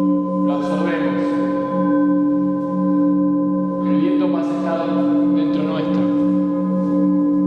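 Sustained ringing bell-like tones, singing-bowl or gong-like, held steadily with a slow wavering beat in the lowest tone. A brighter, fuller layer of sound swells in briefly about half a second in and again about four seconds in.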